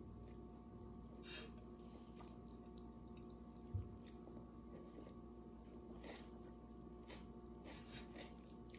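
Faint chewing of food by a person eating with their fingers, with a few soft mouth clicks and a single low thump a little before the middle, over a steady low hum.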